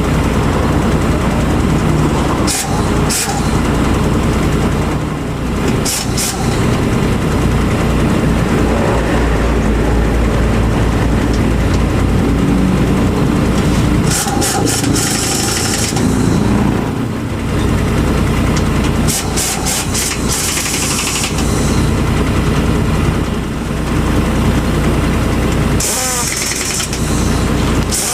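Truck engine running steadily, with several short sharp clicks and brief hisses over it.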